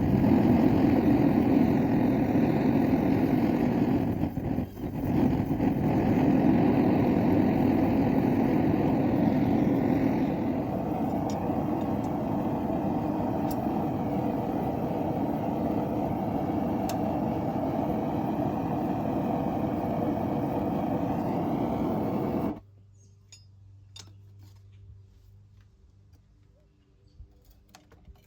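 Forge burner running with a steady noise while the blade is heated for thermocycling. It cuts off suddenly about 22 seconds in, leaving only faint ticks and a low hum.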